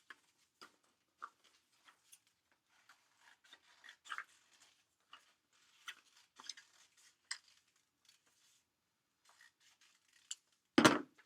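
Scissors snipping through two stacked sheets of paper, with light paper rustling between the cuts. One louder knock comes near the end.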